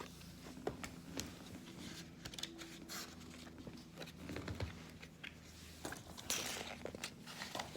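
Faint rustling and light clicks of a paper picture book being handled and opened, with a short papery rustle about six seconds in.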